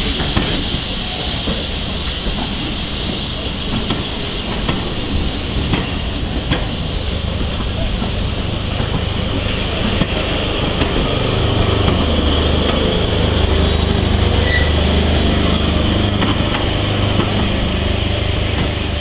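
Railway passenger coaches rolling past at close range: a steady rumble of wheels on the track with occasional clicks, growing a little louder and deeper about halfway through.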